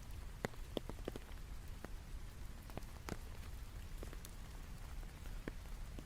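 Rain falling in scattered, irregular drops, each a sharp separate strike, bunched in the first second or so and sparser after, over a low steady rumble.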